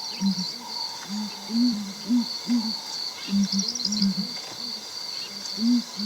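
Southern ground hornbills booming: a chorus of deep, short hoots in loose runs of several notes, over a steady high insect trill.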